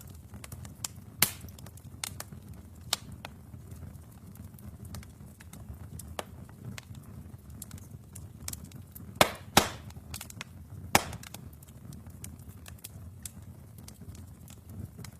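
Wood fire burning in a fireplace: a low, steady rumble of flames with sharp crackles and pops at irregular intervals, the loudest three coming close together about two-thirds of the way through.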